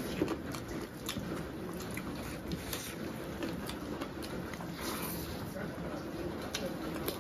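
Close-up eating sounds: chewing with irregular wet mouth clicks and smacks from two people eating curried chicken parts and rice.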